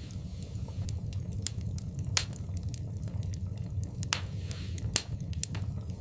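Wood fire in a fireplace crackling: irregular sharp pops and snaps over a steady low rumble of the burning fire, the loudest pops about two, four and five seconds in.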